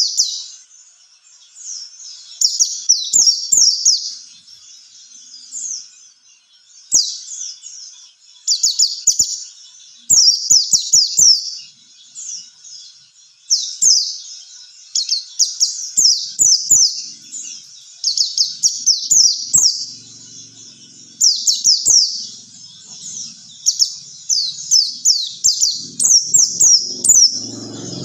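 White-eye (pleci) song: phrases of rapid, high twittering notes, each note sweeping downward, repeating every second or two.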